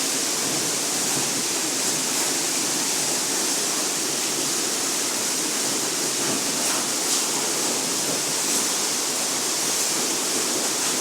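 Underground waterfall inside a cave, water falling steadily in an even, unbroken rush.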